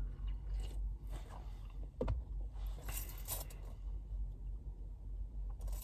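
Someone sipping and swallowing a carbonated soda from a can, with short handling clicks and fizzy hiss, over a steady low hum.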